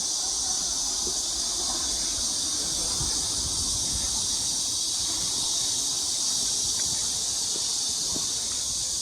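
Chorus of cicadas singing: a steady, high-pitched shrill buzz that holds at an even level throughout.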